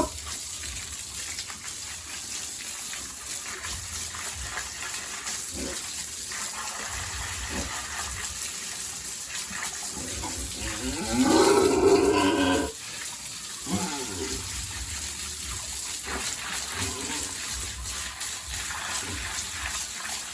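Water running steadily, with a loud call from a pig about eleven seconds in that bends in pitch and lasts about a second and a half.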